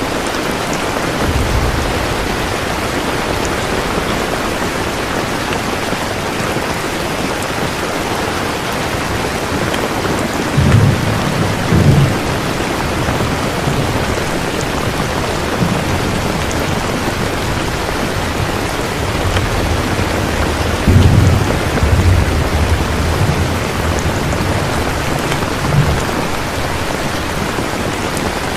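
Steady heavy rain with low rumbles of thunder swelling up several times, loudest about a third of the way in and again past the two-thirds mark.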